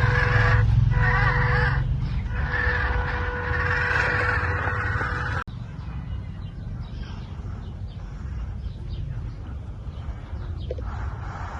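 Small electric RC car motors whining as they drive. The whine dips briefly twice, then stops abruptly about five seconds in, leaving quieter rustling noise.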